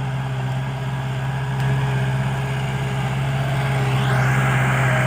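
Kubota L5018 tractor's diesel engine running steadily, pulling a plow, a constant low drone that grows a little louder toward the end.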